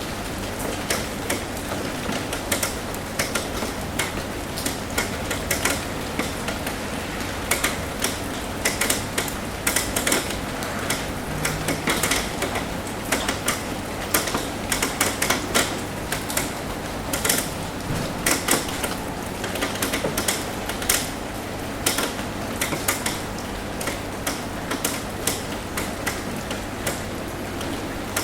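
Rain falling on a roof: a steady hiss of rain with many irregular sharp taps of drops hitting the roof, coming thickest in the middle.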